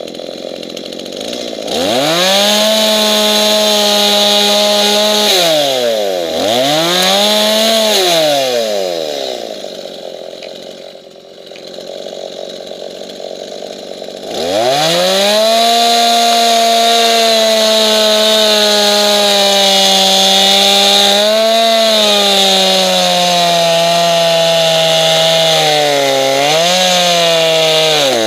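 Two-stroke chainsaw idling, revved to full throttle twice for a few seconds, then held at full throttle for about fourteen seconds while cutting into wood, its pitch sagging slowly and dipping briefly under the load before it drops back toward idle at the very end.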